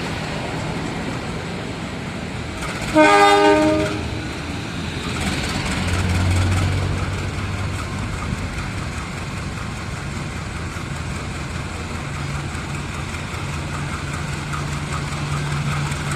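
Diesel locomotive horn sounding one blast of about a second, roughly three seconds in, over the steady rumble of a train running on the line, with a low engine drone later on.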